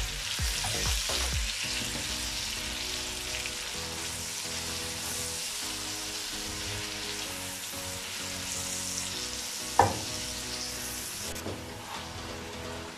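Beef and tomato pieces sizzling steadily as they fry in oil in a karahi, stirred with a silicone spatula. A single sharp knock about ten seconds in.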